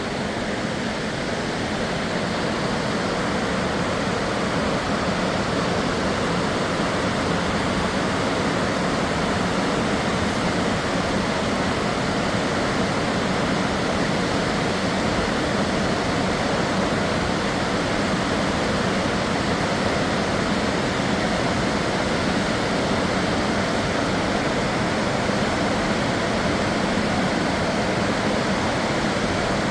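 Large river waterfall rushing steadily: a constant, even wash of falling white water with no change in level.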